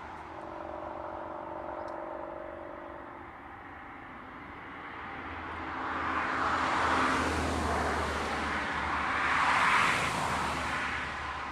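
Jet engines of an Airbus A340-300, four CFM56 turbofans, roaring. A faint steady whine is heard at first, then a broad rushing roar swells about halfway in, peaking twice before easing slightly.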